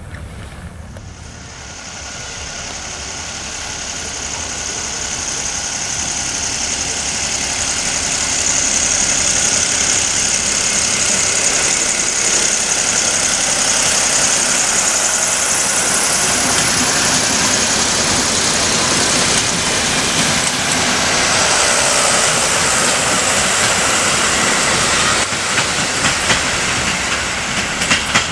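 Passenger train running past close by at night: the noise of its wheels on the rails builds over several seconds into a loud, steady rush with a high hiss. Near the end it breaks into sharper clacks as the wheels cross rail joints.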